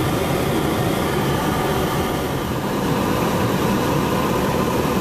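Steady car engine and road noise heard from inside the moving car.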